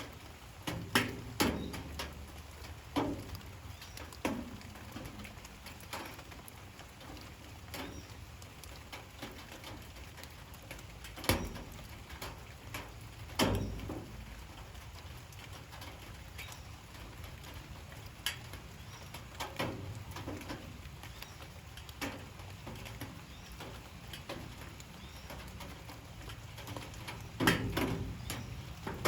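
Light rain falling as a soft, steady hiss, with irregular heavier drips striking a surface every second or two.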